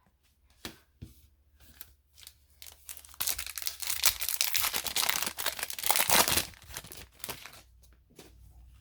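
A hockey trading-card pack's wrapper being torn open and crinkled: a few light clicks at first, then about four seconds of dense crackling tearing that fades near the end.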